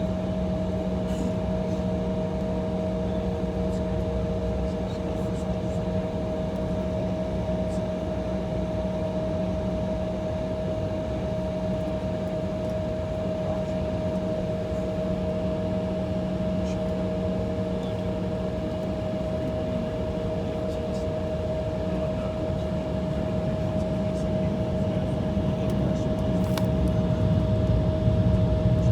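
Steady cabin hum inside an Embraer E175 jet idling on the taxiway: engine and air-conditioning drone with a steady whine. It grows louder and deeper near the end.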